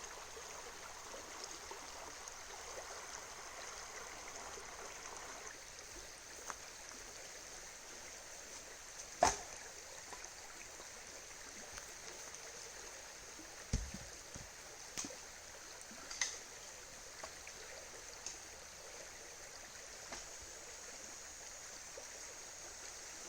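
River running steadily, a rushing noise with a few sharp clicks and knocks over it, the loudest about nine seconds in.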